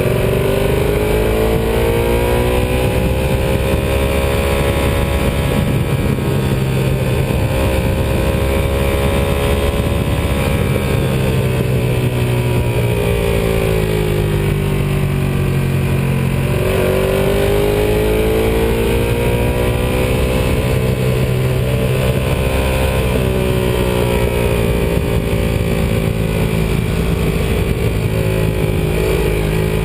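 Ducati 748R's V-twin engine under way, its note rising and falling with the throttle and jumping sharply up in pitch a little past halfway, over steady wind and road noise.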